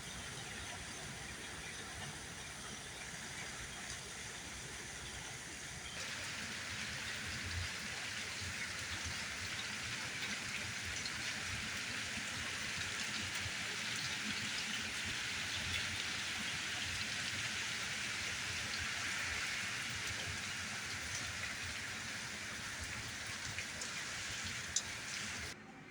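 Heavy rain pouring down in a steady hiss, growing louder and denser about six seconds in.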